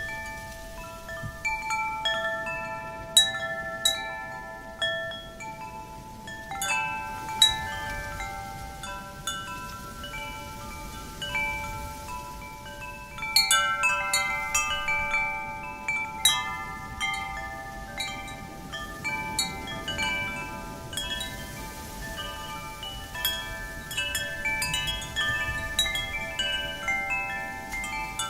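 Wind chimes struck irregularly by the wind, several bell-like tones ringing and overlapping, with busier flurries now and then. A soft wind rush sits beneath.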